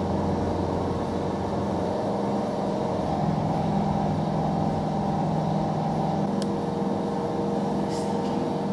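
Steady hum of a waiting airliner's idling engines and cabin systems, with several steady tones over a low rumble.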